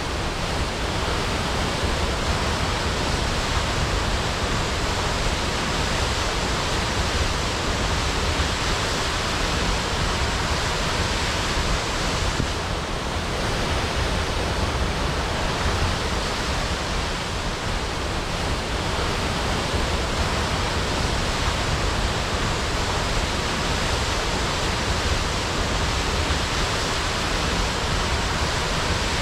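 Waterfall crashing, a steady dense roar of falling water without letup.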